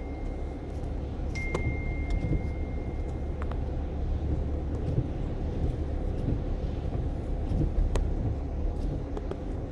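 A steady low rumble like vehicle noise, with a thin steady high tone for a couple of seconds near the start and a few scattered clicks.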